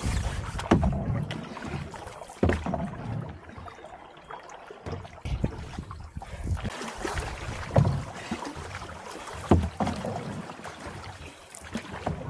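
Canoe paddling on a river: paddles dipping and splashing in the water, with a few sharper strokes standing out irregularly. Wind buffets the microphone underneath.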